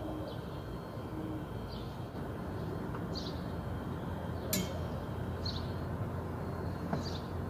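Small bird chirping in short, falling notes about once a second over a steady low outdoor rumble, with one sharp click about halfway through.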